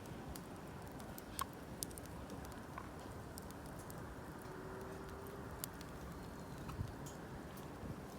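Wood campfire crackling, with scattered sharp pops over a low steady background noise.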